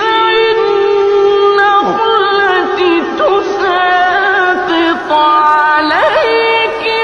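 Melodic Quran recitation by a single unaccompanied voice, drawing out long held notes with ornamented turns in pitch.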